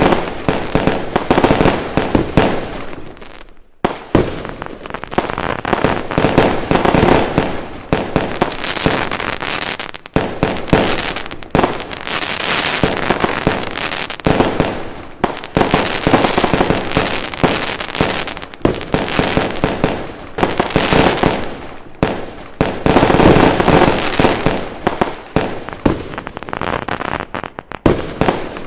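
Fireworks going off in a dense, continuous barrage of bangs and crackling, with brief lulls about four and ten seconds in.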